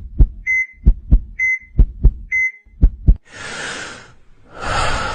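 Heartbeat sound effect: paired lub-dub thumps about once a second, each pair near a short beep like a heart monitor's, for about three seconds. Two hissing whooshes follow, the second rising into the music that comes next.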